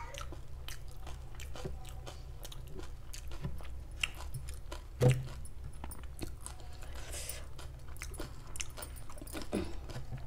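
Close-miked chewing of a mouthful of dahi puri: soft wet clicks and smacks, with one sharper click about five seconds in.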